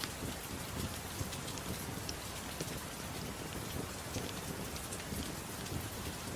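Steady soft rain mixed with a crackling wood fire: an even hiss dotted with many small scattered pops and ticks.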